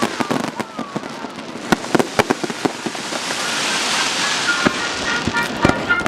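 Fireworks display: a run of sharp bangs from bursting shells, with a hissing crackle swelling up in the middle. Short thin tones come in near the end.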